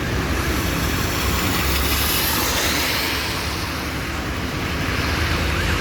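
Heavy rain falling, with a steady low rumble of traffic on the wet road underneath; the hiss swells about two seconds in.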